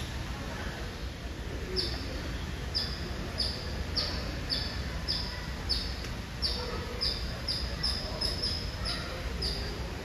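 A bird calling over and over: a run of short, high chirps, about two a second, starting about two seconds in and continuing to the end.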